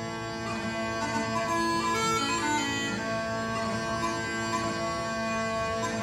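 Scottish smallpipes playing: steady drones sound under a chanter melody that moves from note to note.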